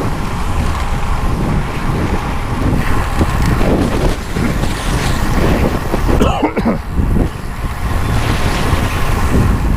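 Wind buffeting an unshielded camera microphone on a moving bicycle, giving a loud, steady low rumble.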